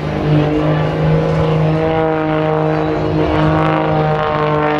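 Engine of a 315-horsepower propeller aerobatic plane running at high power through its display: a loud, steady buzzing drone whose pitch wavers slightly up and down as it manoeuvres.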